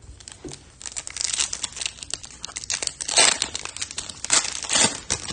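Foil wrapper of a Topps Chrome trading-card pack crinkling and tearing as it is opened, in irregular crackly bursts, loudest a little past the middle.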